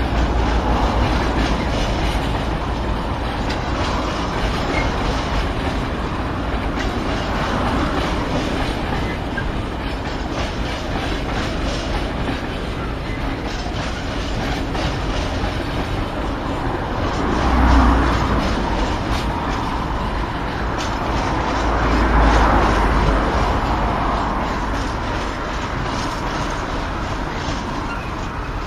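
A loaded freight train of tank wagons rolling past at low speed, wheels clattering over rail joints and points, with a brief faint squeal of wheels. The sound swells louder twice, about 18 and 22 seconds in.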